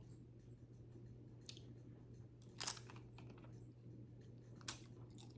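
A person biting and chewing a chip dipped in lobster bisque: three short crunches, the loudest about halfway through, over a faint steady hum.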